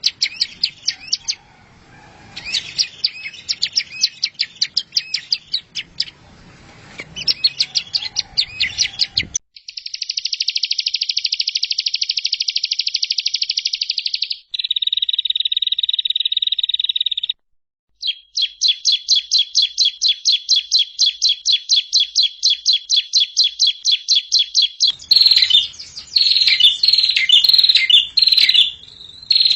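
Songbird songs from a masteran tape for training cage birds, edited together and cut abruptly one into the next. First come chirping phrases, then a fast buzzy trill and a steady shrill note. After that a long run of about four quick notes a second, and sharp chirps near the end.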